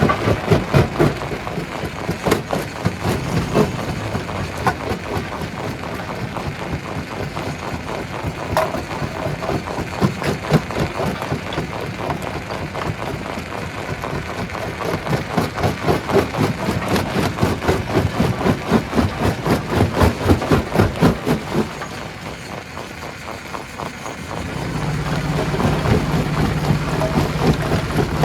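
Stone crusher machinery running, with a dense, rapid rattling and knocking of rock being worked. Near the end the rattling eases and a steady low engine hum takes over.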